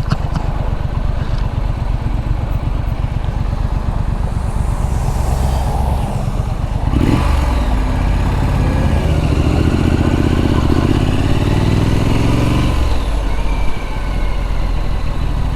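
Triumph Street Scrambler's 900 cc parallel-twin engine running under way, with wind noise. About seven seconds in the engine speeds up, its pitch climbing for several seconds, then drops back near the end.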